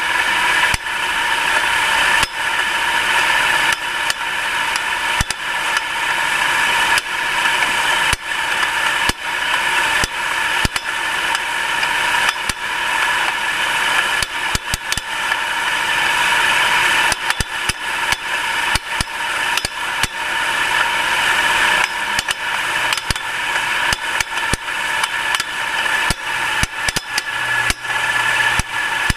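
Nissan March NK13 running with rapid, irregular knocking from under the hood over a steady high whine; the knock lasts until the engine warms up and comes with a flashing battery warning light.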